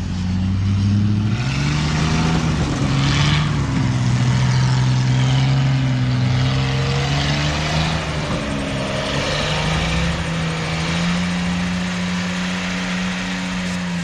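Truck engine revving hard and held at high revs under heavy load while pushing through deep snow, its pitch stepping up about a second and a half in, wavering, then climbing again near ten seconds in.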